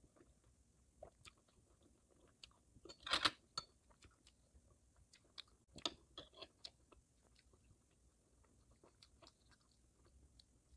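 Close-up chewing of a mouthful of canned silkworm pupae (beondegi): scattered soft, wet clicks of the jaw and food, with louder bursts of chewing about three seconds in and again around six seconds.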